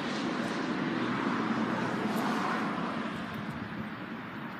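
Passing traffic: a steady rush of vehicle noise that swells about two seconds in and then fades.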